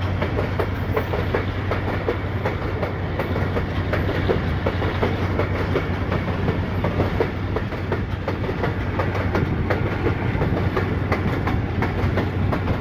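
Passenger train running along the track, heard from inside the moving coach: a steady rumble of wheels on rail, with a hum underneath and a stream of quick, irregular clicks and clacks from the wheels crossing rail joints.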